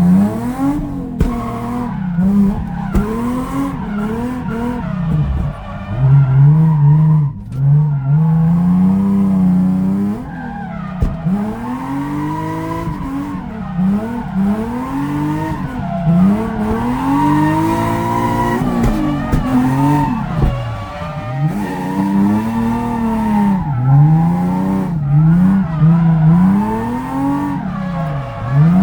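Drift car's engine revving hard and dropping back again and again through a drift run, with tyres squealing as the car slides.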